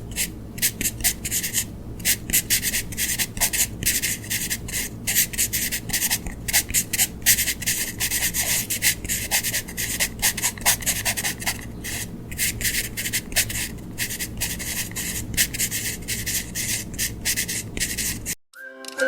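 A colouring tool scratching on paper in quick back-and-forth strokes as an area is filled in. The scratching cuts off near the end.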